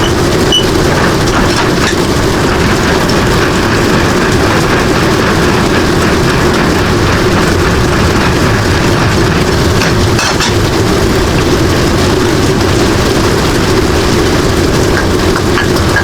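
Semi truck running with a steady, loud rumble of engine and road noise.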